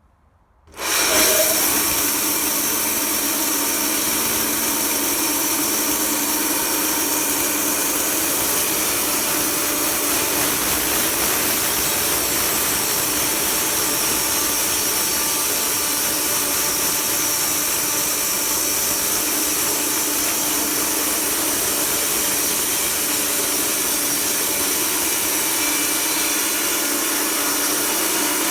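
A sawmill starts abruptly about a second in and then runs at a steady, even pitch without pause, loud and unchanging.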